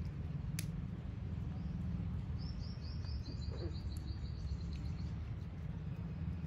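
A small bird gives a rapid run of short high chirps, about two seconds in, lasting some two and a half seconds and stepping slightly lower partway through. Under it runs a steady low rumble.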